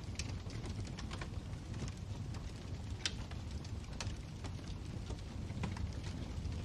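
Wood fire in a fireplace crackling: a steady low rumble of the flames with irregular sharp pops and snaps, one louder pop about three seconds in.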